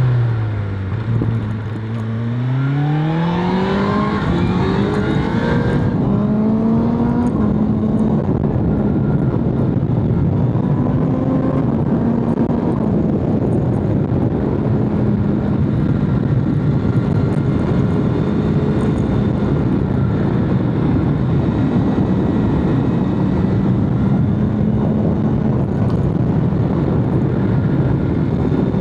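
BMW S1000RR's inline-four engine easing off, then pulling hard with a steeply rising pitch over the first few seconds, then holding fairly steady revs at cruise with small rises and dips. A steady rush of wind runs under it throughout.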